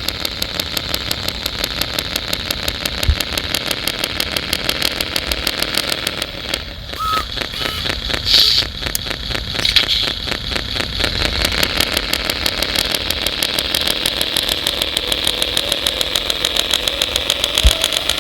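Engine sound of a radio-controlled construction model idling with a rapid, even beat, briefly louder and more uneven about eight to ten seconds in.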